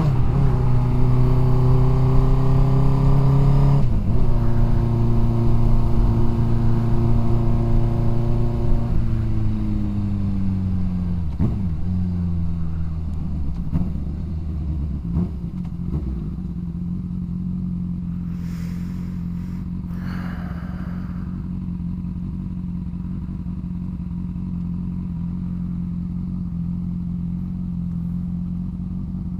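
Motorcycle engine heard from the rider's seat, pulling steadily in gear with a brief break in the tone about four seconds in as the rider shifts, then the revs fall away as the bike slows and the engine settles into a steady low-rev run.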